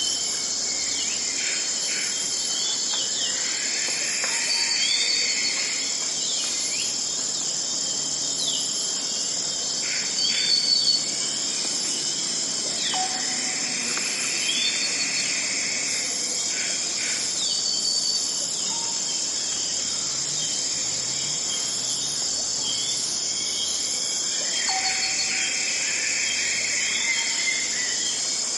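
Forest ambience: a steady, dense insect chorus with short bird chirps and calls scattered over it, and fuller bird phrases about every ten seconds.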